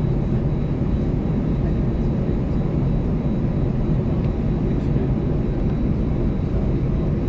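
Cabin noise inside an Airbus A320-214 as it taxis: a steady low rumble from the CFM56-5B engines at taxi power, with a faint thin high whine.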